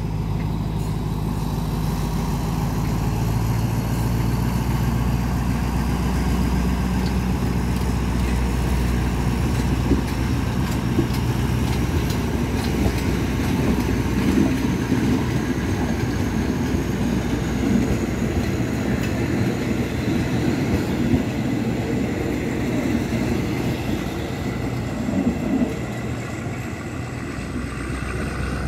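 Passenger train pulling out: its coaches roll past with a low steady rumble and a dense, irregular clatter of wheels on the rails. A faint high whine rises slowly in pitch throughout, and the clatter eases near the end as the train draws away.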